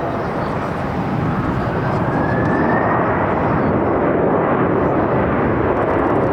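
Jet airliner flying past on its landing approach: a steady rush of engine noise, with a faint whine rising in pitch about two seconds in.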